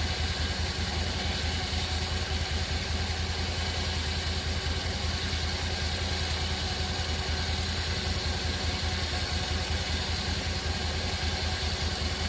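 A vehicle engine idling steadily with an even low pulse.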